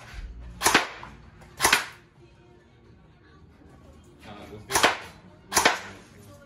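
Shooting-gallery air rifle firing four sharp cracks in two pairs, each pair about a second apart, with a pause of about three seconds between the pairs.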